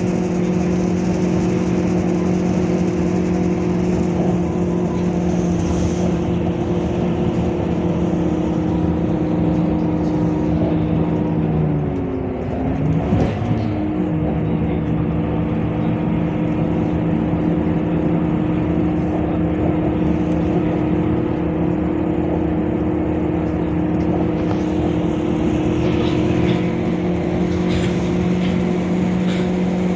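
Scania K230UB bus's diesel engine running steadily under way, with a brief dip and recovery in pitch about twelve seconds in.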